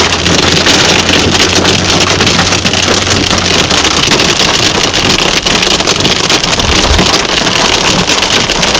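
Heavy rain pouring down in a loud, steady hiss, with wind buffeting the microphone.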